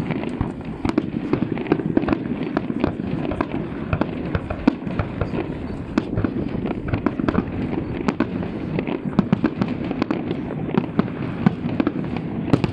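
Aerial firework shells bursting in rapid, irregular succession: many sharp bangs and crackles with no pause between them.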